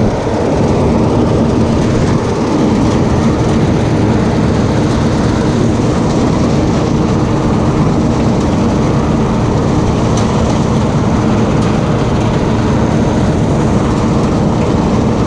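Bizon Z056 combine harvester's diesel engine and machinery running, a loud, steady drone.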